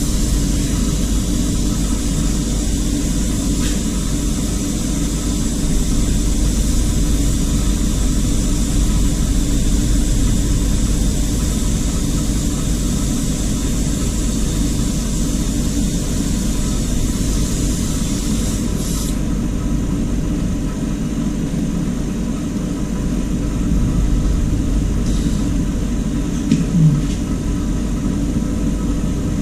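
A steady, loud rushing rumble with a hiss on top. The hiss thins out about two-thirds of the way in, and there is a short knock near the end.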